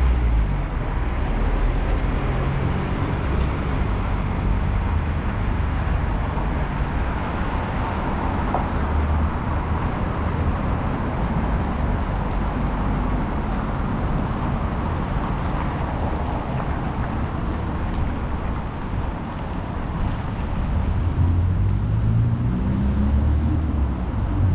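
Steady city street traffic noise, cars passing, with low gusts of wind buffeting the microphone.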